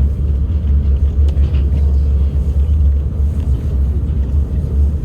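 Moscow monorail train running between stations, heard from inside the car: a steady, loud low rumble with a light hiss above it.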